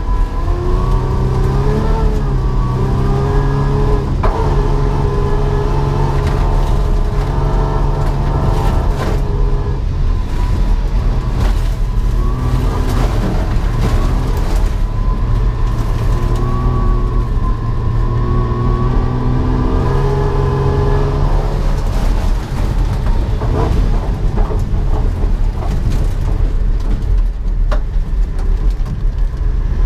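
VS Holden Commodore's engine under hard acceleration on an autocross run, revving up and dropping back again and again as it is driven through the gears and corners, with a few sharp knocks in the second half.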